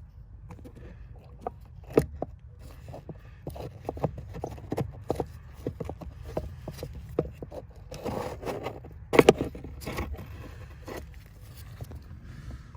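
Hand work on the truck's dashboard parts: a run of irregular clicks, knocks and scraping as tools and plastic parts are handled, with sharper knocks about two seconds in and again near nine seconds, over a steady low hum.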